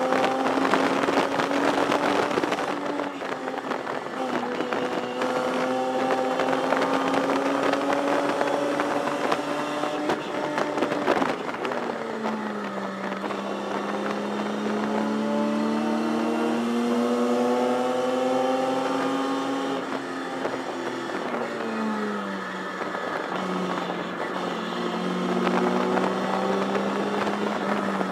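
1973 Datsun 240Z race car's straight-six engine under racing load, heard from inside the cockpit over wind and road noise. The engine note slowly climbs, drops sharply about eleven seconds in, climbs again, and falls once more around twenty seconds in.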